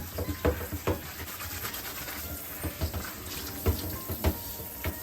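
Water sloshing and splashing in a small turtle tank, with irregular knocks and scrapes, several a second.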